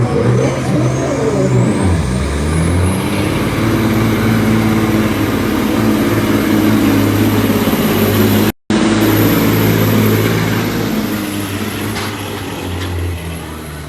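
Straight-piped Caterpillar 3406E semi-truck diesel running hard at high rpm, pulling the sled under load. Its pitch climbs over the first couple of seconds, the sound cuts out for a moment a little past halfway, and the engine note drops near the end.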